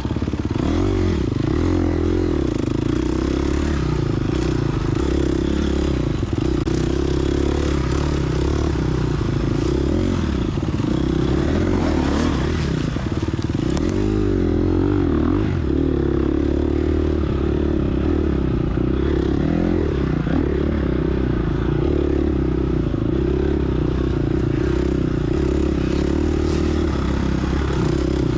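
Gas Gas EX250F's four-stroke single-cylinder dirt bike engine running continuously under way, its pitch rising and falling as the throttle is worked.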